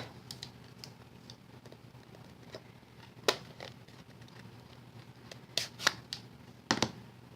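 A stamp tapped on an ink pad and pressed onto paper: a few scattered light taps and clicks, with soft handling of paper between them.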